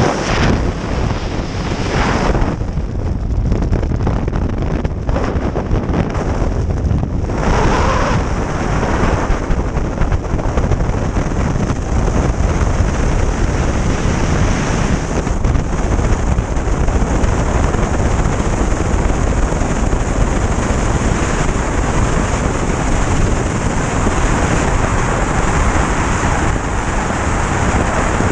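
Steady loud roar of engines and rushing air heard from inside an airplane cabin, with a few surges in the first several seconds before it settles into a constant rumble.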